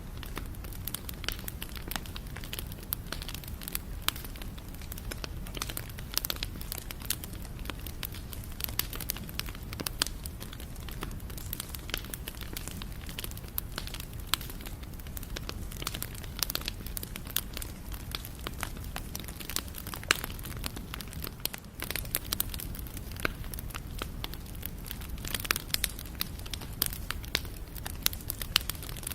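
Wood fire burning, with dense, irregular crackles and pops over a low steady rumble of flames.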